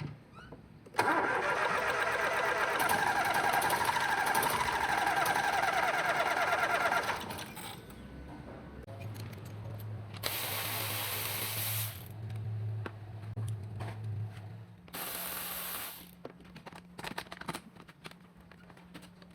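Ford 1.0 EcoBoost three-cylinder engine cranked on its starter for about six seconds without firing. This is the no-start caused by a timing belt that has lost teeth. Later come a low steady hum and two short bursts of hiss.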